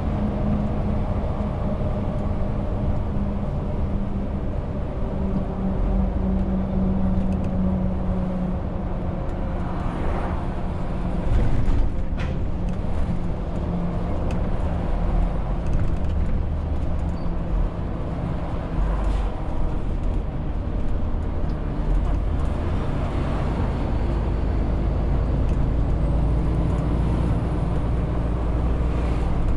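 Heavy truck's diesel engine running under load, a Renault T520 tractor unit pulling about 40 tonnes; its note drops about eight seconds in as the revs change, with a brief sharp sound around twelve seconds in.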